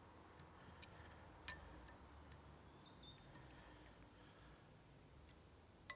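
Near silence: faint room tone, with a small sharp click about a second and a half in and another near the end.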